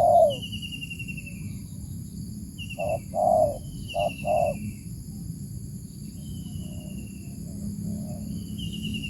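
Birds calling back and forth in a luring duel: quick groups of three or four short, low cooing notes come at the start and again about three to four seconds in, answered by higher, falling trilled calls. A steady high insect drone runs underneath.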